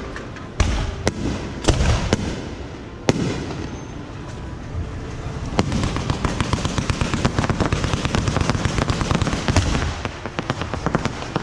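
Fireworks going off: several separate sharp bangs in the first three seconds, then, from about five and a half seconds in, a dense, fast crackle of many small pops.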